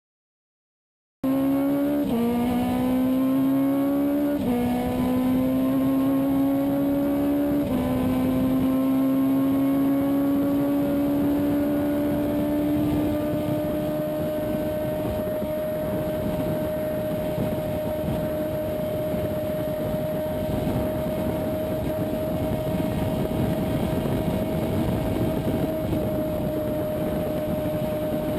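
Car engine accelerating hard through the gears: the pitch climbs and drops back at three upshifts, then holds a steady high note at speed over road and wind noise. It starts after about a second of silence.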